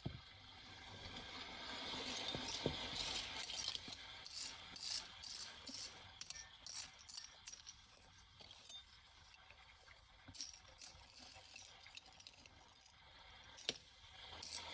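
Small hard objects clinking and rattling as debris is picked through by hand, a series of short clicks over a faint wash of sea.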